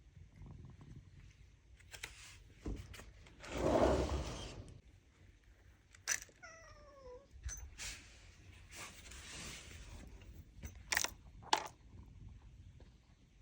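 A stray cat meows once, a single slightly falling call about six seconds in. Around it are handling noises: a loud rustle near four seconds and a few sharp clicks near the end.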